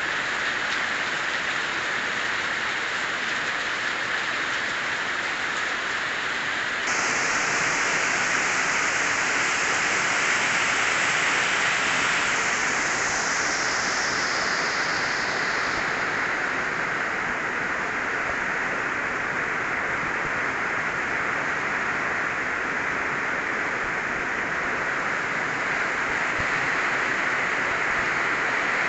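Heavy rain pouring down steadily, a dense hiss. About seven seconds in, the sound jumps a little louder and brighter.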